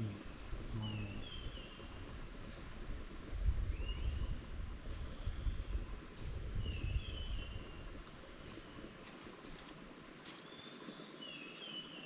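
Wild birds calling: a short warbled phrase repeats about four times a few seconds apart, with scattered higher chirps between. A low rumble rises for a few seconds in the middle.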